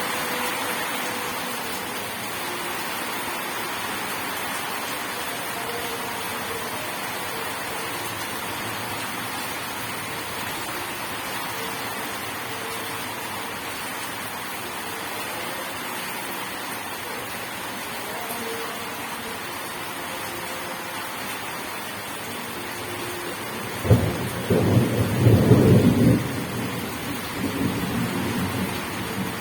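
Steady rain falling, with a sudden clap of thunder about 24 seconds in that keeps rumbling to the end.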